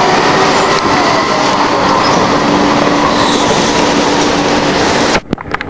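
Porto Metro light-rail train running in the station: a loud, steady rail rumble with a faint hum, and a brief high wheel squeal about a second in. The sound cuts out for a moment near the end.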